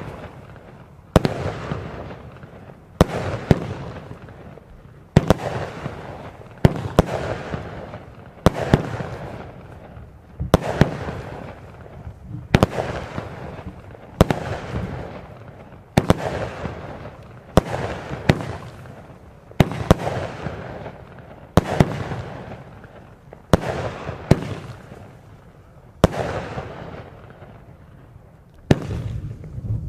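Vulcan Fireworks 'Soul Crushers' multi-shot cake firing, a sharp report about every two seconds, each followed by a fading crackle of the burst.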